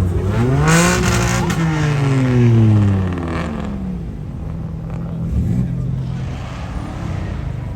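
A car engine revved: the pitch climbs quickly about a second in, then falls slowly back over the next couple of seconds before settling to a steady idle.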